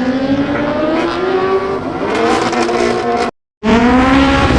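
Race car engine at full throttle, its pitch climbing steadily as the car accelerates. The sound cuts out abruptly for a moment about three seconds in, then the engine returns.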